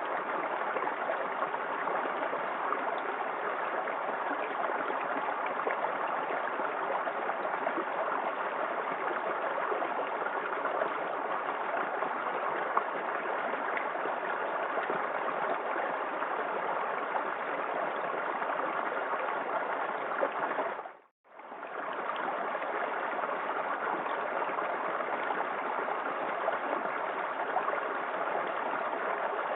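Small waterfall in a forest creek: a steady rush and splash of falling water. About two-thirds of the way through, the sound fades out briefly and comes straight back.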